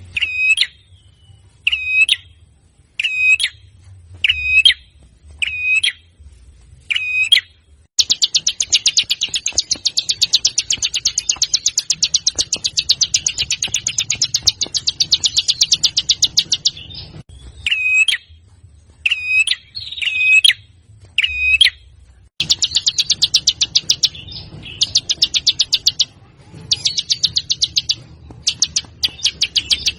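A songbird calling: sharp high hooked call notes repeated about once a second, broken by long fast rattling trills, one lasting about nine seconds from eight seconds in, and more trills in the last third.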